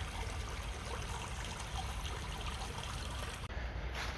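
Water of a shallow brook trickling steadily, its sound changing abruptly near the end.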